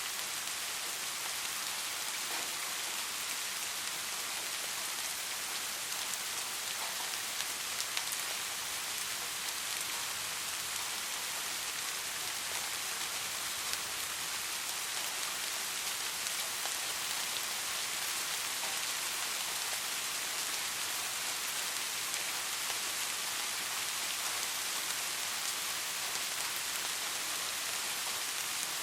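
Steady soft rain falling, an even hiss of many small drops with faint individual drop ticks scattered through it.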